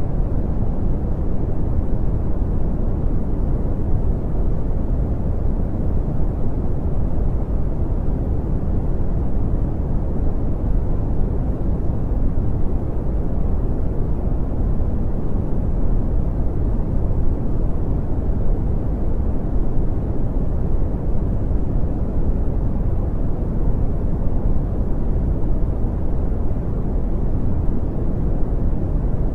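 Brown noise: a steady, deep rushing hiss, heaviest in the low end and muffled in the highs, with no change throughout.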